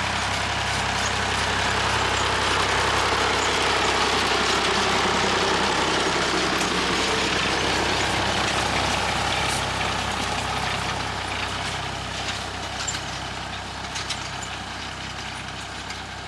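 Massey Ferguson 35 tractor engine running in the field. It grows louder over the first few seconds, then slowly fades away, as the tractor passes and moves off.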